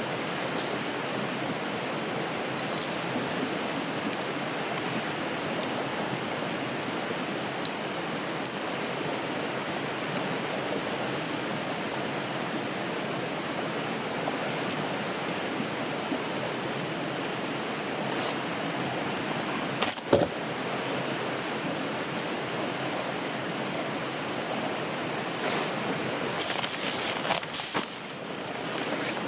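River water flowing steadily with an even rush, with a single sharp knock about two-thirds of the way through and a brief hiss near the end.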